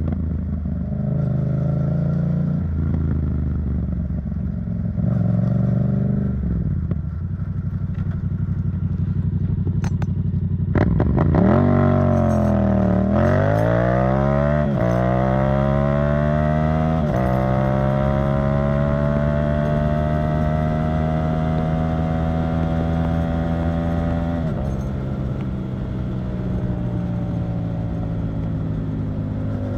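Yamaha MT-07 689 cc parallel-twin engine through an Arrow Thunder titanium aftermarket exhaust. It runs at low revs with small throttle blips, then revs climb sharply about eleven seconds in and rise in stages, the pitch dropping suddenly at each step as if through upshifts. A long pull ends about twenty-five seconds in, when the throttle eases off and the revs fall slowly.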